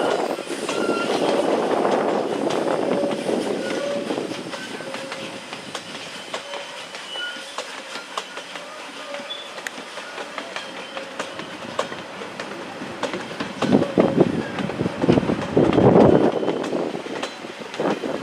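A train rolling along the track, its wheels clattering on the rails, with a louder stretch of clatter near the end.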